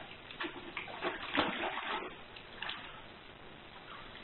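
Water splashing and sloshing in short, irregular surges.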